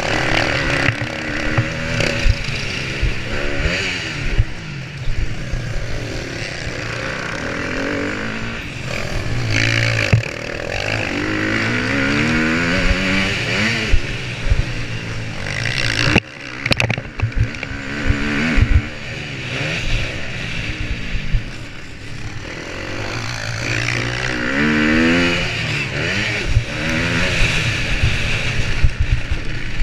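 Motocross bike engine at race pace, revving up and falling back again and again as the rider works the throttle and gears, heard from a camera mounted on the bike or rider, with many short thumps and buffeting. The sound dips sharply for a moment about halfway through.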